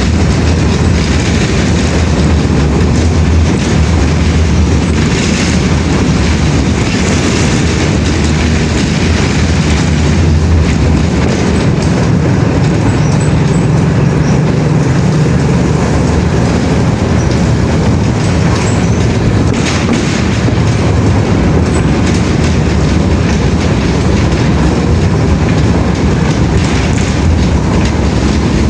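Loud, steady low rumble of a vehicle in motion, with no break or change.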